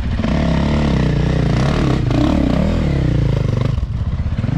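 A dirt bike engine revving up and down hard as the bike is ridden up an obstacle, with its pitch rising and falling over and over and a brief drop near the end. Onlookers take it for a 450.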